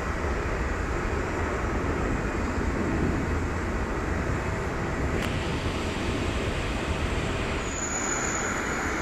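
Steady jet aircraft engine noise with a deep rumble underneath; a thin high whine comes in near the end.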